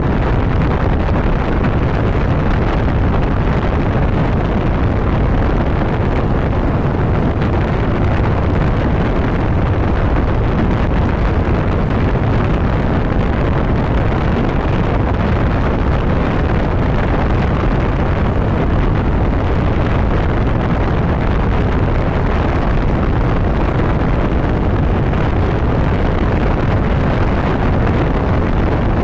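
Steady wind rushing over the microphone of a moving motorcycle, with its engine and road noise under it at constant cruising speed.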